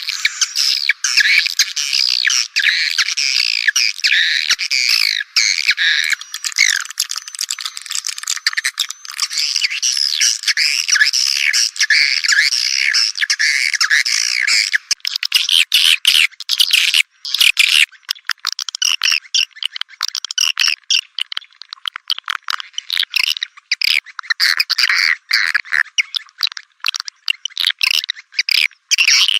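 Swiftlet lure call recording for a swiftlet farm: a dense flock of swiftlets twittering in gliding, chirping notes. About halfway through it changes to a rapid, clicking chatter. Everything below the birds' high register is cut away.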